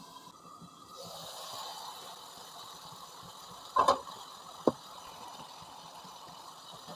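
Food sizzling steadily in a hot pan, with a few sharp clinks around four seconds in.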